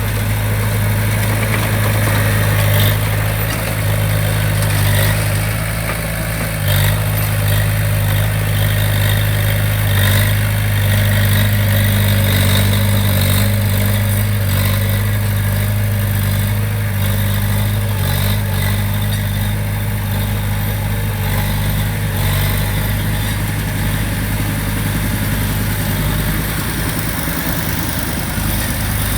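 Diesel engine of a heavy construction machine running steadily: a strong low hum that barely changes in pitch.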